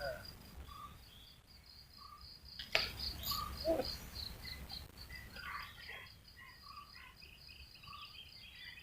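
Insects chirping in a steady, high, pulsing trill, with scattered bird chirps and a single sharp click a little under three seconds in.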